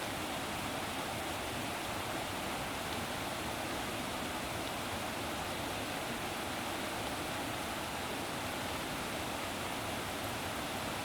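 Steady rushing of flowing water, an even unbroken noise with no separate events.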